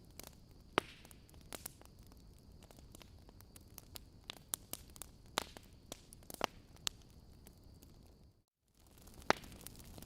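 Wood fire in a fireplace crackling: irregular sharp pops and snaps over a soft steady hiss. There is a brief dropout to silence about eight and a half seconds in.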